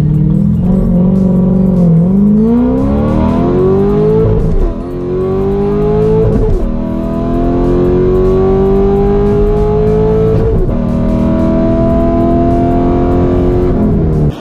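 Cammed, straight-piped LS3 V8 of a 2009 Corvette C6 at full throttle down a drag strip. The engine note is held steady for a moment, then climbs through the revs, with three upshifts of the manual gearbox, each a brief drop in pitch before it climbs again.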